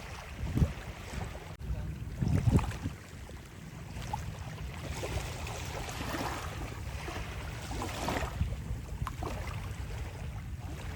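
Wind buffeting the microphone in gusts, with sea surf rushing and ebbing behind it.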